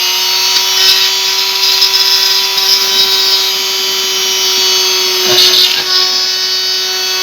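Dremel rotary tool running at steady full speed with a high whine while drilling a hole through a plastic toy part, with brief grinding as the bit bites about five seconds in.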